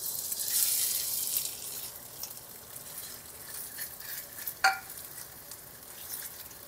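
Diced, cornstarch-coated chicken sizzling in hot oil in a wok just after going in, loudest for the first second and a half and then settling into a steady sizzle. A single metallic clink rings out about four and a half seconds in.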